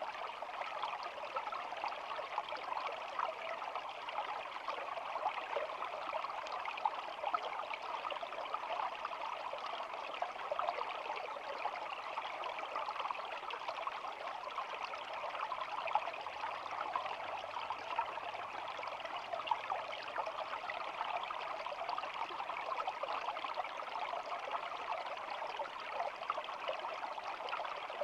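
Small shallow stream babbling steadily, a dense patter of little splashes without pauses.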